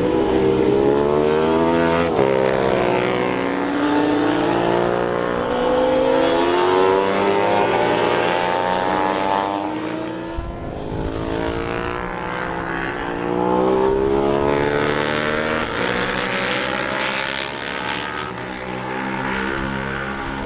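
Several racing motorcycles passing at speed, their engines rising and falling in pitch through gear changes as they lap the circuit. The sound eases briefly about halfway through and again near the end.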